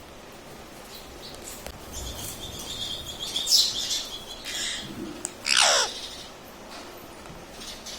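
Ring-necked parrot calling: a rippling high trill about two seconds in, a few short sharp calls, then one long call that slides steeply down in pitch just past the middle.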